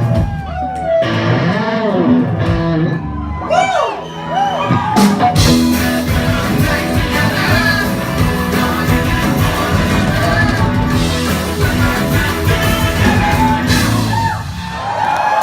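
Live rock band playing, with electric guitar and singing, heard in a large hall.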